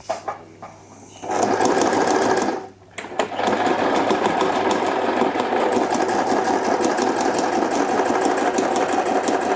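Sewing machine stitching fabric bags. It starts about a second in, runs briefly, stops for a moment, then runs steadily with fast, even stitching.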